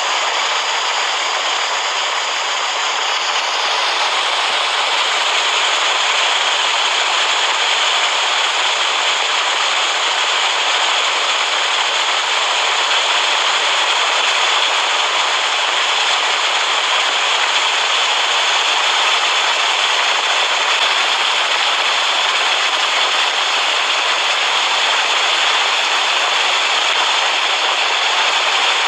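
Steady heavy rain, an even hiss with no single drops, thunder or breaks standing out.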